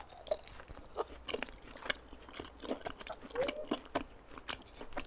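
Close-miked chewing of a lettuce wrap filled with pork galbi and raw garlic: a steady run of irregular wet crunches and smacks of crisp leaves and meat being bitten down.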